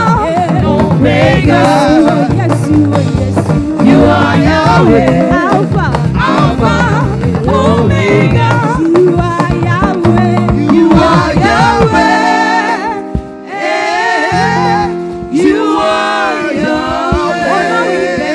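Live gospel praise music: singing with wavering, ornamented vocal lines over a full band accompaniment. About two-thirds through, the low bass drops out for a few seconds, leaving held keyboard chords under the voice, then comes back in.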